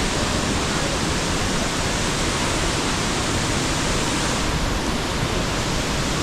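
Steady, unbroken rush of water from the Thompson's Falls waterfall.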